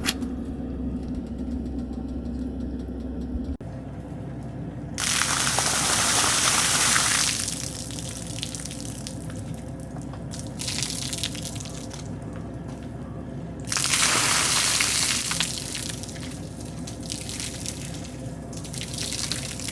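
Water pouring or running in two bursts of about two seconds each, the second starting about nine seconds after the first. A low steady hum stops abruptly a few seconds before the first burst.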